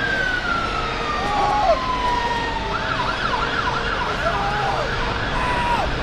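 Emergency vehicle siren sounding a slow wail that falls in pitch, then switching about halfway through to a fast yelp of about three rising-and-falling sweeps a second. A steady low traffic rumble runs underneath.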